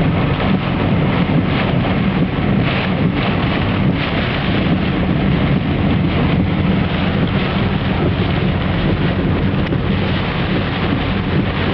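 Steady storm noise: wind and rain, with a low, steady vehicle hum beneath, as from a car driving through the storm.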